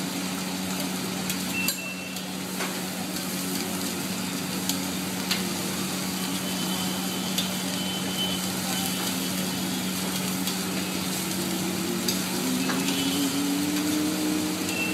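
Food frying and sizzling on a large flat street-food griddle while a metal spatula stirs and chops it, with scattered sharp clicks of the spatula striking the griddle. A steady low hum runs underneath.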